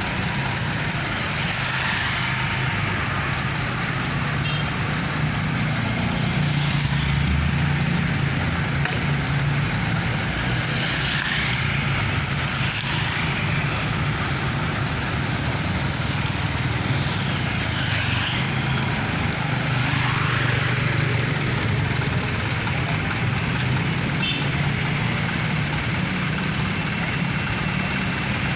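Heavy road traffic: large diesel engines of buses and trucks running with a steady low rumble, and vehicles passing by every few seconds.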